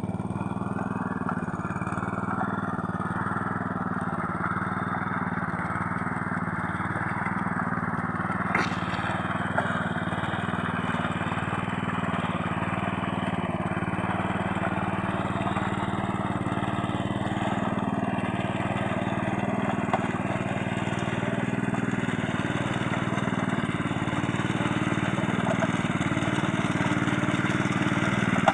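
Small rice-paddy hand tractor's engine running steadily while it works a deep, muddy plot. There is a single sharp click about a third of the way through.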